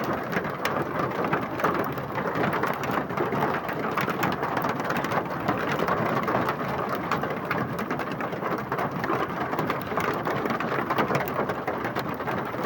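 Hail and heavy rain pelting down: a dense, steady patter with many sharp clicks of hailstones striking.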